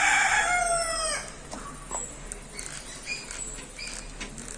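A rooster crowing, its call ending about a second in with a falling tail, followed by a few faint short chirps.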